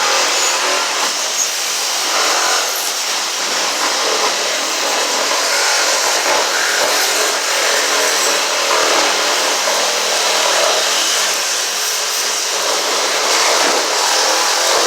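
Power saw running steadily, cutting through building material.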